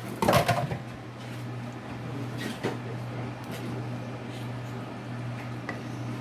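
A brief clatter about a quarter second in as shrimp are tipped into the pan of Alfredo sauce, followed by a few faint clicks, over a steady low hum.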